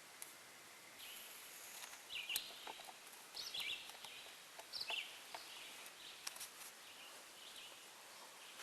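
Faint outdoor ambience with a few short, high bird chirps scattered through it and occasional soft clicks.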